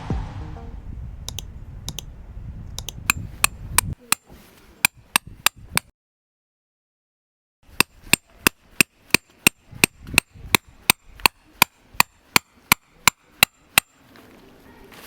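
Repeated hammer blows in a quick even rhythm, about three a second, with a break partway through. Background music fades out at the start.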